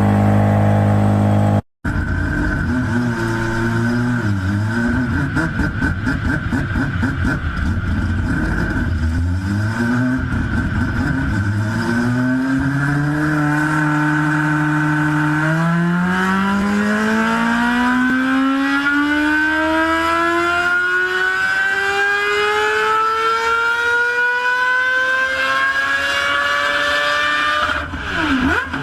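Mazda rotary engine running with its buzzing exhaust note, blipped unevenly at first, then held steady before one long full-throttle pull in which the pitch rises smoothly for about twelve seconds and cuts off near the end. A different engine runs loud and steady for the first two seconds, ending at an abrupt cut.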